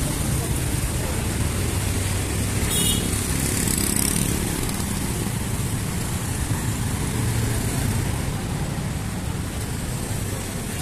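Busy city road traffic: a steady mix of vehicle engines and tyre noise, with a brief high-pitched sound about three seconds in.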